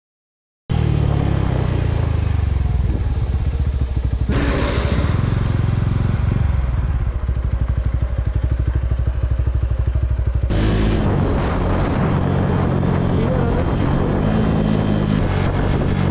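Suzuki Gixxer 250's single-cylinder engine running as the motorcycle rides along. The sound starts after a brief dropout and changes abruptly twice, with a short rise and fall in engine pitch near the end.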